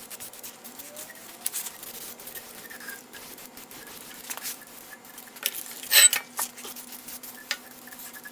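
Metal parts and tools being handled on a shop workbench: scattered clinks and knocks, with the loudest clatter about six seconds in.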